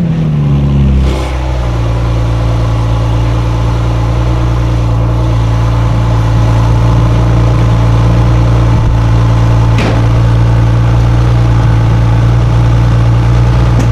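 A car engine idling steadily. Its pitch falls back from a rev during the first second and a half, then holds level.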